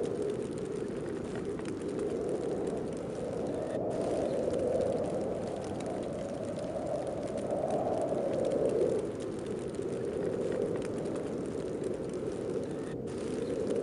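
Heavy snowstorm wind blowing steadily, swelling and easing every few seconds.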